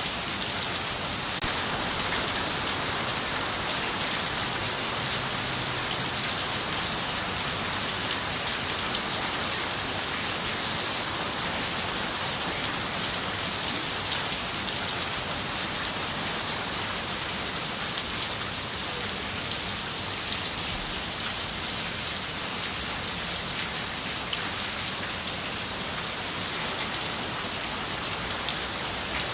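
Steady rain on a window: an even, constant hiss of falling rain, with a few separate drop ticks standing out now and then.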